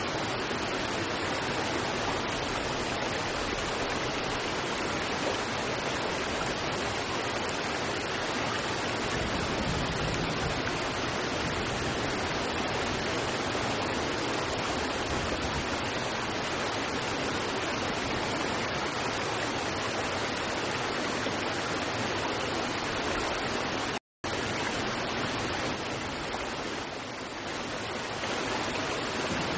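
River water rushing steadily over rocks, an even wash of noise that cuts out for a split second about 24 seconds in.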